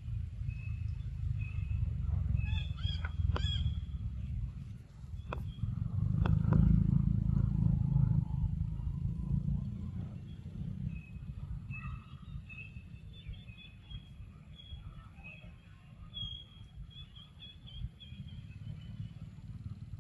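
Birds chirping repeatedly over a low wind rumble on the microphone; the rumble is strongest about six to eight seconds in.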